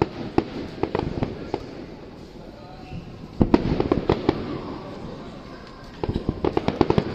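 Aerial fireworks bursting in three quick volleys of sharp bangs, with short gaps of lower background noise between them.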